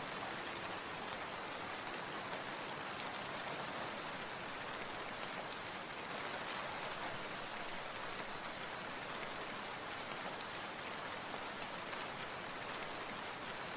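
Steady water sound: an even, unbroken hiss that holds at one level throughout.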